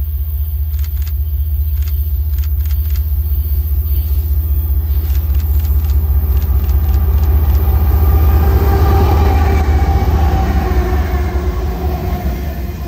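Train passing close by: a heavy low rumble with a scatter of sharp clicks in the first half, growing loudest about eight or nine seconds in and easing off near the end.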